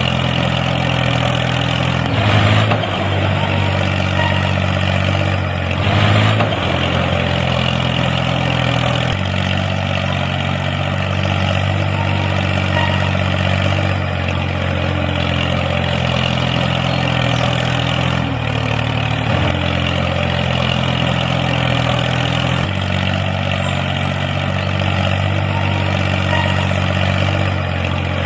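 Tractor engine running steadily at low revs, with two brief louder surges about two and six seconds in and a few small steps in pitch later on.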